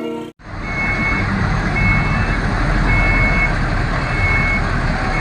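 A 10-wheel dump truck's reversing alarm beeping steadily about once a second over its running engine, the sign that the truck is backing up.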